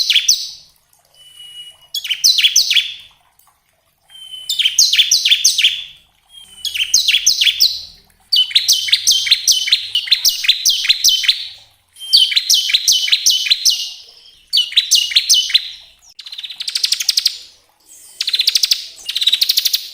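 Bar-winged prinia (ciblek) singing a run of fast, rattling trills in repeated bursts, each a second to several seconds long with short pauses between. A short thin whistle comes before a couple of the bursts.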